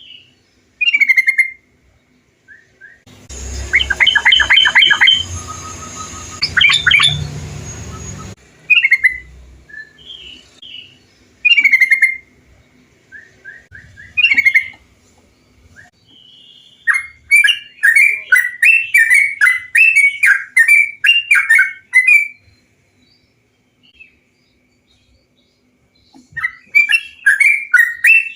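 Yellow-vented bulbuls (trucukan) singing short, bubbly chirping phrases, with gaps between them. A stretch with a low hum and hiss underneath runs from about three to eight seconds in. Later comes a rapid run of a dozen or so repeated chirps, and another run starts near the end.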